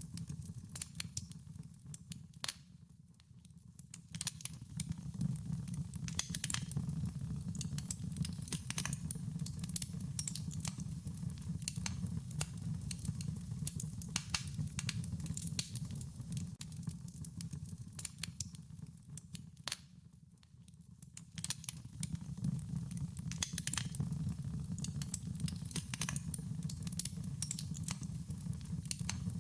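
Wood fire crackling: irregular sharp pops and snaps over a low steady rumble of flame. The rumble fades briefly twice, about three seconds in and again about two-thirds of the way through.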